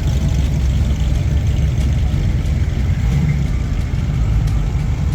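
Engine of a classic car or hot rod running at low speed, a steady, deep engine sound.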